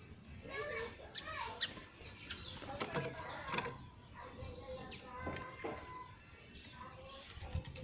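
Small birds chirping and twittering in many short, quick calls.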